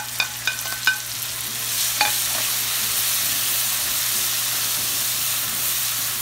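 Chopped tomatoes frying and sizzling in hot oil in a wok while a wooden spatula stirs them. In the first second there are a few sharp, ringing clinks as the tomatoes are knocked off a ceramic plate against the wok, and one more about two seconds in. After that the sizzle grows louder and runs steadily.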